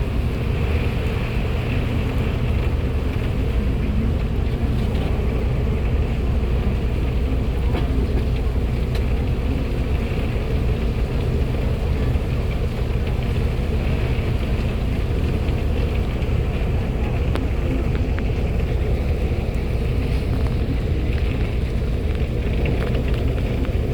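Heavy rain falling steadily, a dense, even rush of noise with a strong low rumble.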